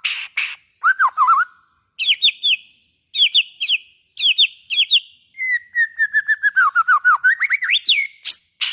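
A white-rumped shama (murai batu) singing. Harsh rasping notes and a short whistled phrase come first, then repeated quick whistled double notes. Over the last few seconds a long run of rapid notes slides down in pitch and then climbs sharply.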